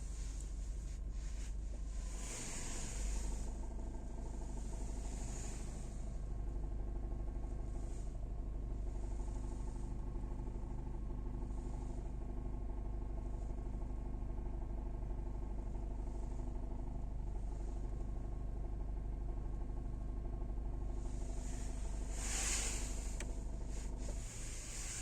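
VW Tiguan 1.4 TSI (CZDA) engine idling, heard from inside the cabin, with a light knocking that becomes more distinct as the heated windscreen loads the alternator. There are brief rustling noises about two seconds in and again near the end.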